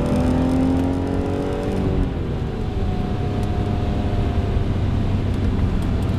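BMW E46 M3's straight-six engine heard from inside the cabin, its note rising steadily under acceleration for about two seconds, then dropping away to a quieter, steadier tone. Low road and tyre rumble runs underneath.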